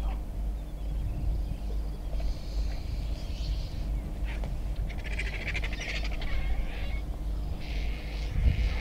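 Wild birds calling several times, including a rapid rattling call about halfway through, over a steady low rumble.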